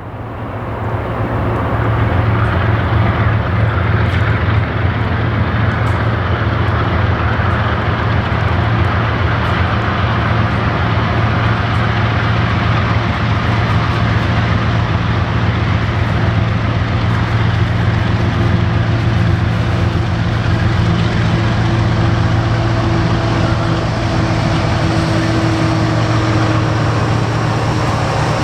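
BNSF diesel-electric locomotives running slowly past, a steady deep engine hum over the rumble of the train. A thin higher squeal comes in during the second half.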